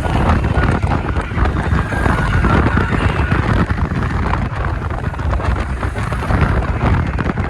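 Wind buffeting the microphone on a moving electric scooter: a loud, steady, fluttering rumble with road noise underneath.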